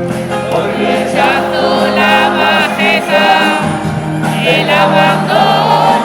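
Live pop-rock band music with voices singing, as heard at a concert in a large arena.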